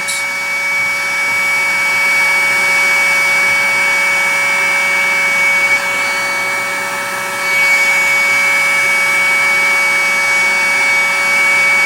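Hot-air rework blower running steadily, a constant rush of air with a high whine, as it heats the CPU socket for BGA desoldering.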